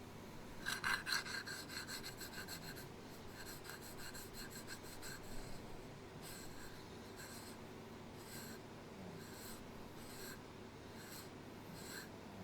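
Scratchy rasping strokes: a quick run of many short strokes for about two seconds, then slower single strokes one or two a second.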